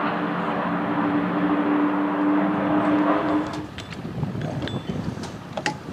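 NASCAR stock car's V8 engine running at low speed as the car rolls to a stop after hot laps, then shutting off about three and a half seconds in. Light clicks and knocks follow in the quiet cabin.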